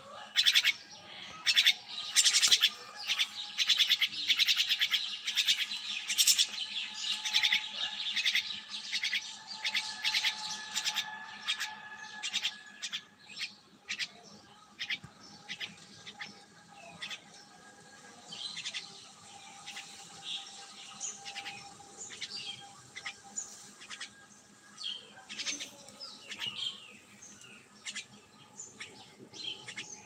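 A bird chirping in a rapid run of short, sharp, high chirps, thickest in about the first twelve seconds and sparser after that.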